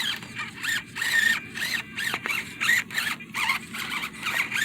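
Small electric motor and gearbox of a 1/24-scale RC crawler whining in short, quick rises and falls, several a second, as the throttle is blipped on a rock climb.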